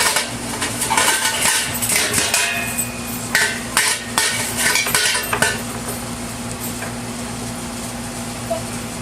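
Young children banging hard objects, a run of uneven clanks and bangs with a metallic ring that stops about five and a half seconds in. A steady low hum continues underneath.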